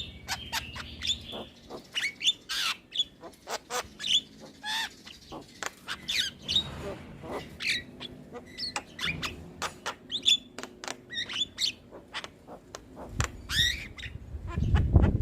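Javan myna (jalak kebo) singing a busy, unbroken string of short chirps, whistled slurs and sharp clicks, several a second. Louder, harsher calls come in near the end.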